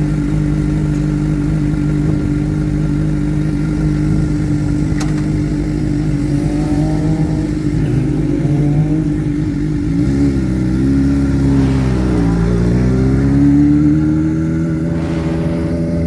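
Suzuki GSX-R 600's inline-four engine at a steady high pitch on track. About ten seconds in, the revs drop twice, as on downshifts under braking, then climb again as it accelerates.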